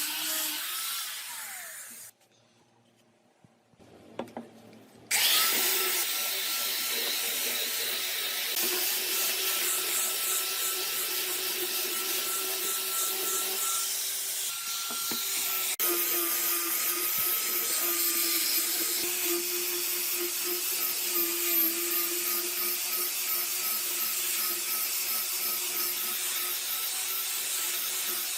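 Electric power tool running steadily on wood with a constant motor whine. It cuts out about two seconds in and starts again about five seconds in.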